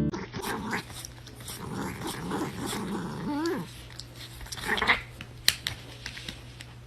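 A dog growling, with a short wavering pitched cry a little past three seconds in.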